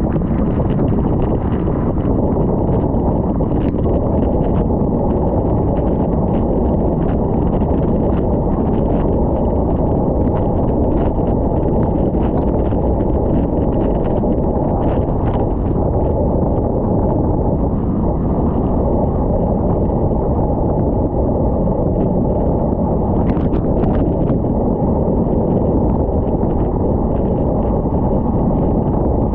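Steady wind rush buffeting the microphone of a moving bicycle, heaviest in the low range, with faint clicks now and then.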